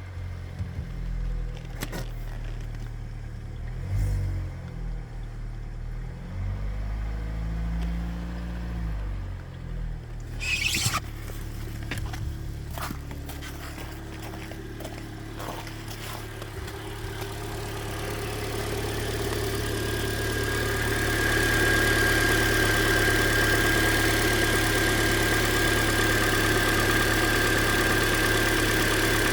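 2013 Hyundai Elantra coupe's 1.8 L four-cylinder engine idling, recorded close over the top of the engine, with a few knocks and rustles in the first half. Past the middle it grows louder and a steady high whine comes in. The owner hears a tick on cylinder 3 that he suspects is piston slap, possibly deeper than the lifters.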